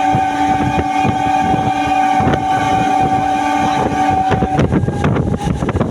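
Train horn held in one long steady blast that cuts off about four and a half seconds in, over the rattle and rumble of a running train.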